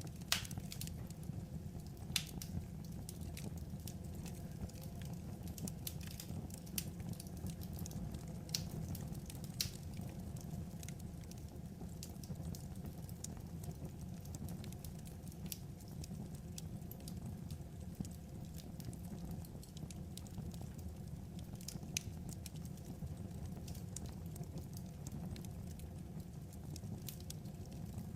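Crackling wood fire: a steady low rumble of burning with sharp pops and snaps every few seconds.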